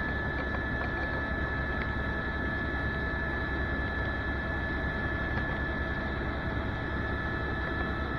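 Helicopter in flight heard from inside the cabin: a steady drone of engine and rotor with a high whine held on one pitch.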